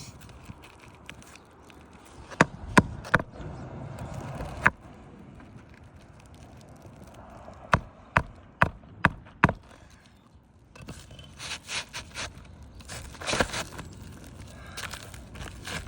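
Nails being driven into laminated asphalt roof shingles: four sharp strikes a few seconds in, then five more at about two a second around the middle. After that, rustling and scraping as shingles are handled and slid into place.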